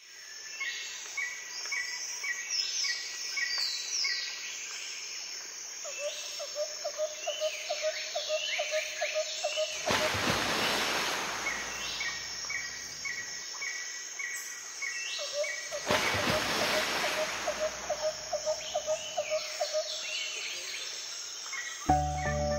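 Birds chirping and calling, with repeated high glides and a lower call pulsing several times a second, and two stretches of rushing noise, about ten and sixteen seconds in. Music begins near the end.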